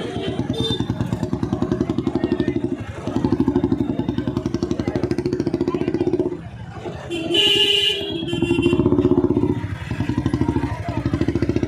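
Motorcycle engine running under way with a fast, even pulsing beat. It eases off briefly about six seconds in, then picks up again.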